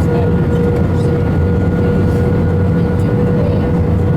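Airbus A321-131 cabin noise from a window seat: steady engine and airflow rumble with a constant whine running through it.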